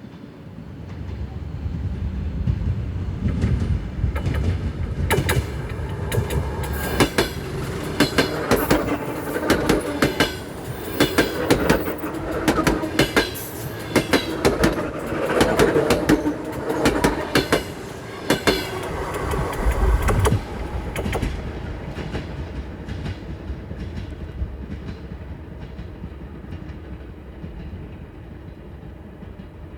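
ER2 electric multiple unit passing close by as it pulls away: the whine of its traction gearboxes over clickety-clack of wheels on rail joints, with rattles and squeaks from the running gear and suspension. It builds over the first few seconds, is loudest from about 5 to 20 seconds with many sharp knocks, then fades steadily into the distance.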